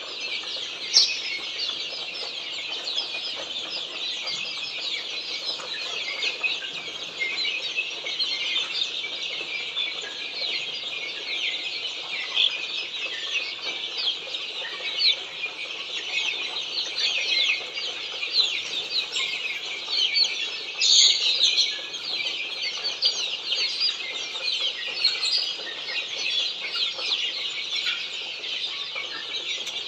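A crowd of Australorp chicks peeping continuously: many short, high, falling chirps overlapping, with a louder flurry about two-thirds of the way through.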